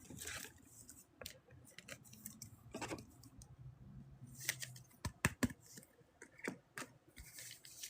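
Trading cards and a foil pack being handled and opened: irregular light clicks, taps and crinkles of card stock and wrapper.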